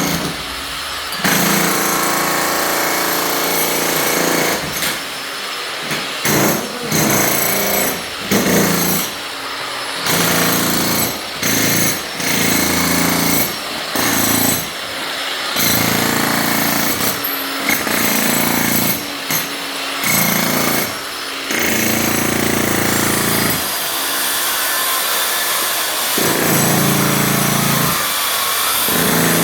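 Jackhammer breaking up concrete, run in repeated bursts that stop and start every second or two, with a longer unbroken run near the end.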